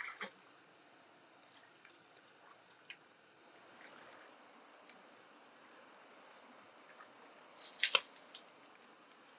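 Scattered faint wet clicks and squelches from a large pearl mussel's shell and flesh being handled, with a louder cluster of sharp clicks about eight seconds in.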